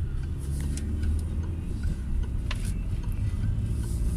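Cabin noise of a Peugeot 308 on the move: a steady low rumble of engine and road noise.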